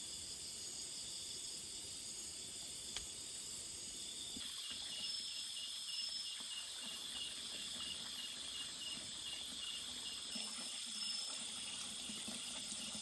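Insects, crickets among them, chirping steadily in high pitches. About four and a half seconds in, an evenly pulsed chirp joins at about three chirps a second.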